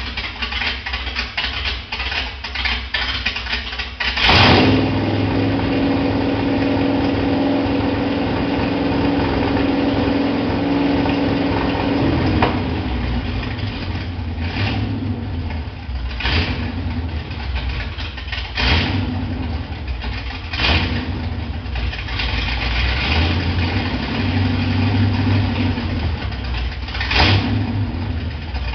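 Dodge V8 engine running unevenly. About four seconds in, it jumps to a loud, steady, higher speed that sags slowly for about eight seconds, then drops back to a lumpy idle. It is then given several short throttle blips a couple of seconds apart.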